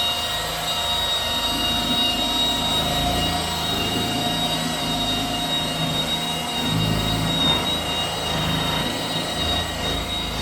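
Milwaukee cordless battery-powered polisher running, buffing wax off a truck's painted panel: a steady high-pitched motor whine over a lower hum that shifts as the pad moves and loads.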